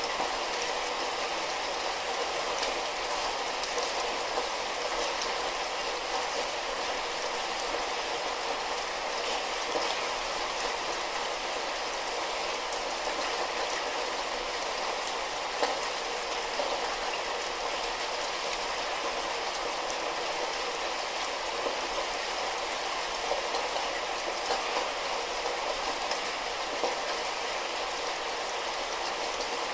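Steady light rain falling, an even hiss with scattered individual drop ticks.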